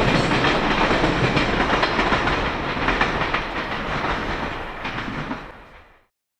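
Freight train's container flatcars rolling past on the rails, wheels clacking over rail joints, fading as the last wagons draw away. The sound cuts off abruptly about six seconds in.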